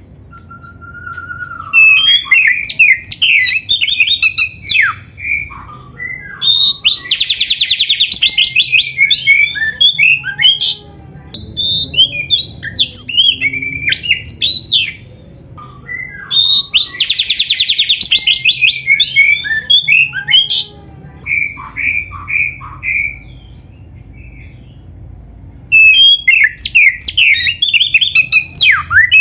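Oriental magpie-robin (kacer) singing loud, varied full song in bursts of whistled phrases with short pauses between them. Two of the phrases are long, rapid trills of quickly repeated notes.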